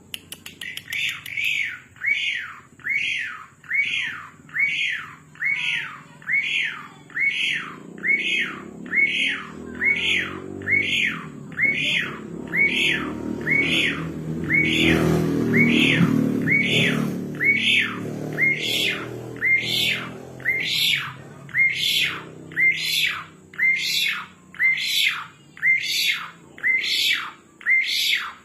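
Asian pied starling (jalak suren) calling over and over in full 'gacor' form: the same loud, squawky note, sweeping down then back up, repeated evenly about four times every three seconds. A low rumble rises behind it around the middle and fades out again.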